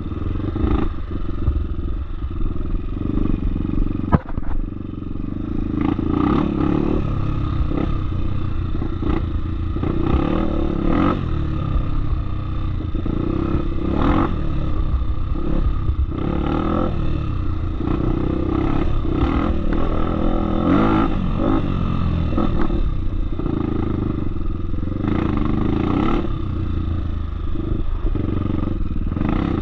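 Off-road motorcycle engine running on a trail, its revs rising and falling over and over as the rider works the throttle. There is one sharp knock about four seconds in.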